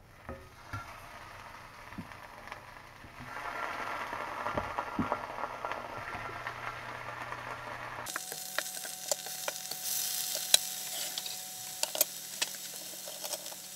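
Slices of bacon Spam sizzling as they fry in a hot cast iron skillet, with a few light clicks as a fork lays them in. About eight seconds in, the sizzle turns louder and brighter, with sharp crackles.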